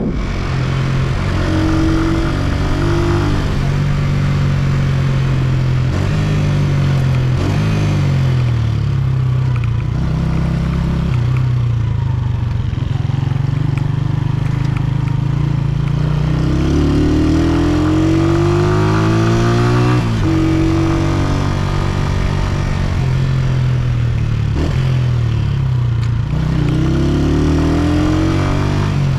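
Honda CG125's single-cylinder four-stroke engine under way, heard from the rider's seat. Its pitch climbs as it accelerates, then drops suddenly at each gear change, twice in the second half, over a steady rush of wind and road noise.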